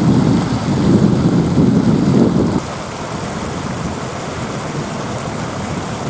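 Water running over a small man-made waterfall, a steady rush. It is louder for the first two and a half seconds, then drops to a softer, even rush.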